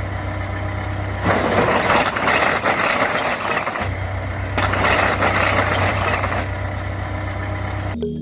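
An engine running steadily with a deep hum under a rough noise, growing louder for a few seconds in the middle. It cuts in and out abruptly.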